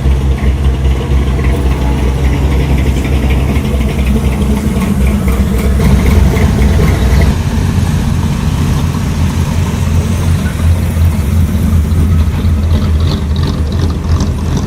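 Car engine idling, a loud, deep, steady rumble.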